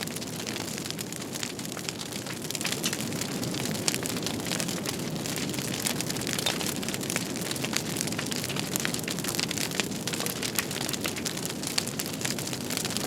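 Fireplace fire crackling: many small irregular pops and snaps over a steady low rushing of the flames.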